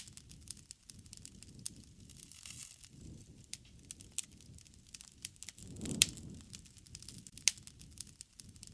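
Wood campfire crackling, with irregular sharp pops over a soft low rumble of flames that swells and fades. The loudest pop comes about six seconds in.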